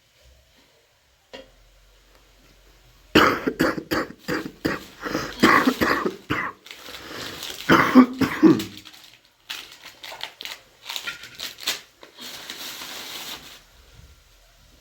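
A person coughing repeatedly, in harsh bouts over several seconds.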